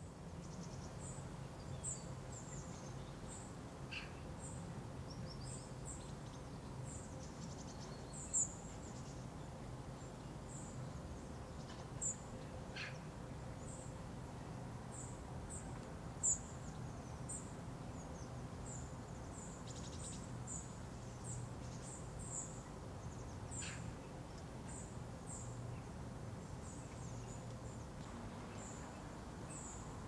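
Small birds chirping in the open: many short, high calls repeated throughout, with a few longer notes that fall in pitch, over a steady low background hum.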